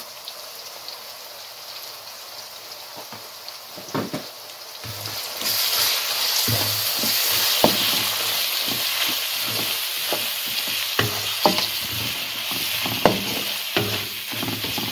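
Sliced onions and ground spices sizzling in hot oil in a karai. The sizzle is soft at first and grows louder about five seconds in, once a spatula starts stirring. Repeated short scrapes and knocks of the spatula against the pan come through it.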